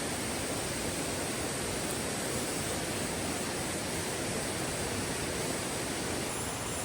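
Mountain valley stream running steadily, with a high, even chorus of grass insects above the water.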